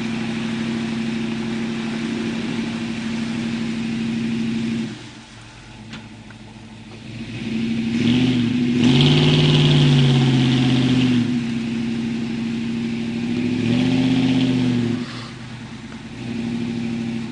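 Pickup truck engine running steadily, then revved hard twice, its pitch rising and falling, once near the middle and again shortly after, as the truck works through mud.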